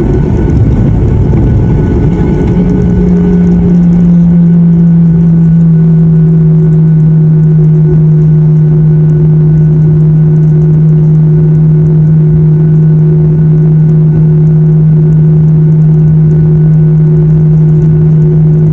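Airliner engines heard from inside the cabin on takeoff: a rough rumble for the first couple of seconds settles into a loud, steady drone with a strong low hum that holds unchanged.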